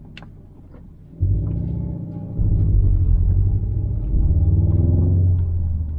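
Subaru WRX STi's turbocharged 2.5-litre EJ257 boxer engine with its muffler deleted, heard from inside the car: quiet off-throttle for about a second after a sharp click, then pulling loudly under throttle, with brief dips about two and four seconds in.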